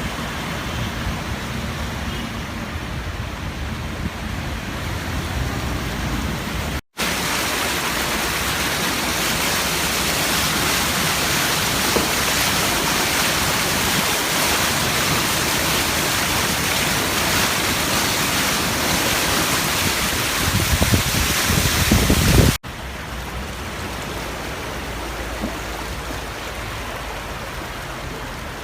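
Heavy rain pouring down, a steady hiss of falling and running water, in three stretches cut together; the middle stretch is the loudest and brightest, with some low rumbling shortly before it cuts off.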